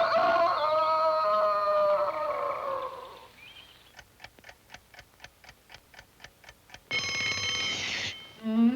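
Cartoon soundtrack: orchestral music winds down, then a clock ticks quickly, about five ticks a second, and an alarm clock bell rings loudly for about a second. Bowed-string music starts up again near the end.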